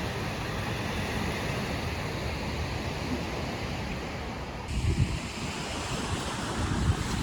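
Steady rush of wind and choppy lake water. About two-thirds of the way through, the sound changes abruptly and low gusts of wind buffet the microphone.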